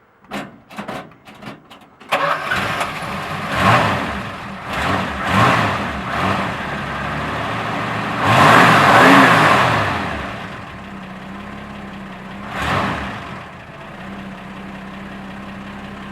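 A 1970 Dodge Dart's 225 slant-six is cranked by the starter for about two seconds, then catches and starts. It is revved several times, one long rev in the middle, and settles to a steady idle near the end.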